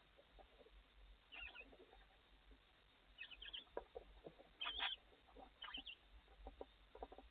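Barn owls in the nest box making short, faint, high chittering squeaks, four or five times, with soft rustling and scraping in between.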